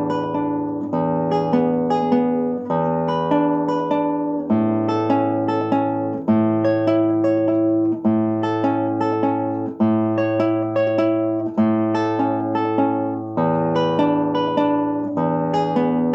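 Solo acoustic guitar playing fingerpicked arpeggios over ringing bass notes, with a new bass note every second or two.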